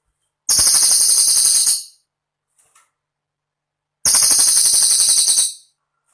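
Cililin bird song: two very high, rapid, rattling trills, each about a second and a half long and a couple of seconds apart, with a few faint short chirps between.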